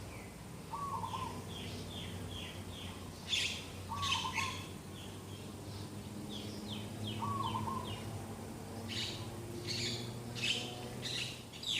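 Several birds singing in the morning: runs of quick falling chirps, denser bursts of louder chirping, and a short lower call from another bird repeated about every three seconds. A steady low hum runs underneath.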